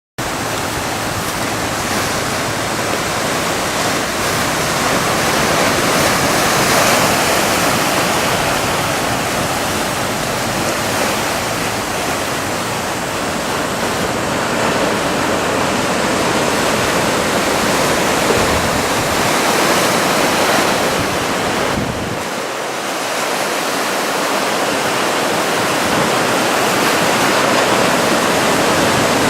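Ocean surf from a heavy typhoon swell: waves breaking one after another in a steady rush that swells and eases slowly.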